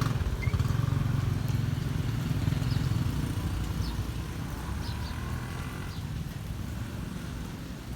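Motorbike engine running with a low rumble that fades away over the first three seconds or so, with a few faint short high chirps near the middle.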